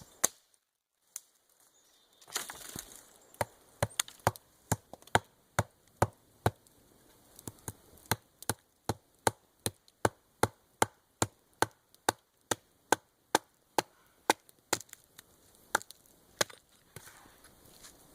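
Wood being chopped with an edged hand tool: a steady run of sharp strokes, about two a second, thinning out near the end.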